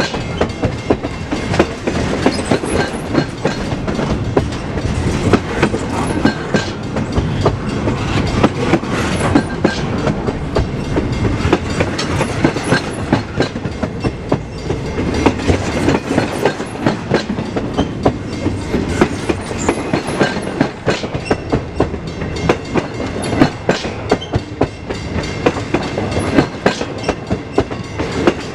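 Freight train rolling past, its wheels clacking over rail joints again and again above a continuous rumble.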